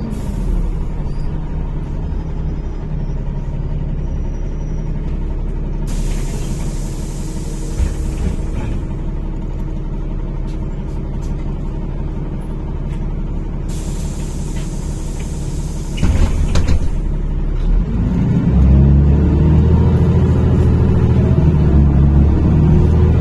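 NefAZ-5299 city bus heard from inside the cabin: the engine runs low and steady, the air system lets out two long hisses, and a knock comes about two-thirds through. Near the end the engine grows louder with rising pitch as the bus pulls away.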